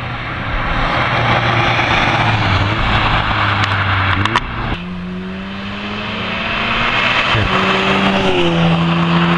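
Stage 2 tuned Audi S3 8V's turbocharged four-cylinder engine pulling hard, its note rising. About four seconds in a gear change breaks it with a sharp crack, and then it climbs again.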